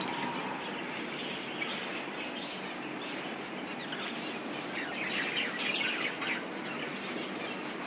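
Budgerigars chirping and chattering continuously, with a louder flurry of calls about five and a half seconds in.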